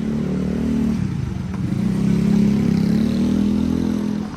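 A motor vehicle's engine running close by on the street, its pitch dipping about a second in and then climbing as it accelerates.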